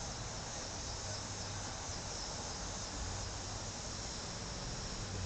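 Steady high-pitched chorus of insects, with a faint low hum coming and going.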